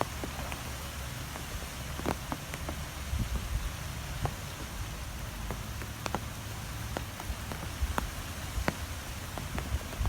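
Strong wind blowing: a steady low rumble under an even hiss, with scattered sharp ticks throughout.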